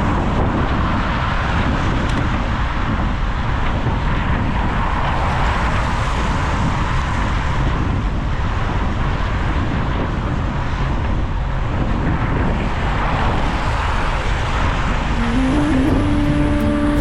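Wind rushing over a bicycle-mounted action camera while riding in the rain, with tyre hiss and city traffic. A steady tone starts near the end.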